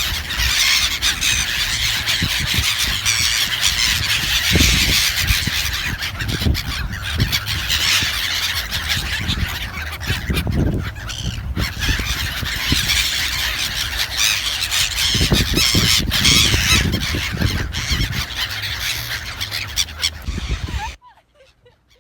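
Dense chorus of many birds calling at once, a continuous squealing, honking din, with wind buffeting the microphone in gusts; it cuts off abruptly about a second before the end.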